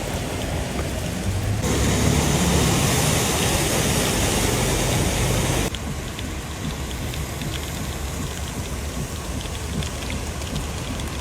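Heavy rain and running floodwater, in three clips cut together. The middle one is the loudest, and the last is quieter, with scattered drops pattering.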